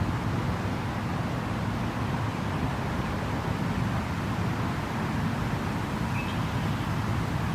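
Steady rushing of a flowing creek, unchanging, with a brief faint high chirp about six seconds in.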